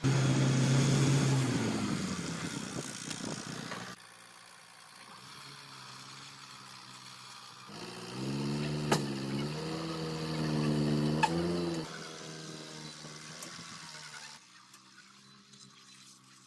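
A vehicle engine running. It comes in loud and abruptly and fades over a few seconds, then returns about eight seconds in with a wavering pitch, as if revved, before dropping away near twelve seconds.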